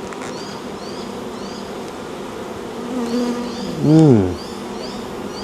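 Honeybees swarming around an opened hive, a steady massed buzz. About four seconds in a louder hum rises and falls in pitch once, and faint high chirps repeat above the buzz.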